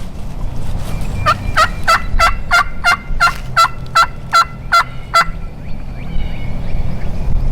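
A series of about a dozen turkey yelps, evenly spaced at about three a second, lasting roughly four seconds and then stopping. A steady low rumble runs underneath.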